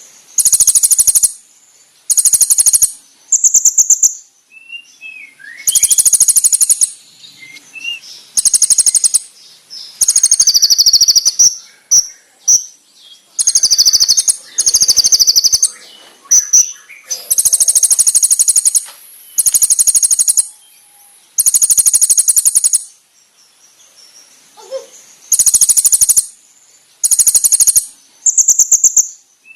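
Kolibri ninja (konin) sunbird singing: loud, very high-pitched, rapid trilled bursts of about a second each, repeated every second or two, with fainter, lower chirps in the gaps.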